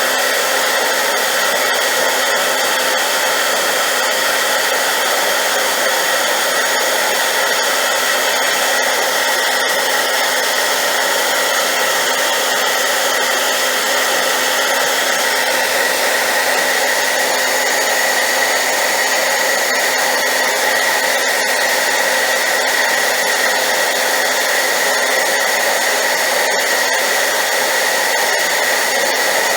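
High-power hairdryer running steadily and loudly, an even rushing hiss of air with a steady high whine from its motor and fan, played as white noise for sleep.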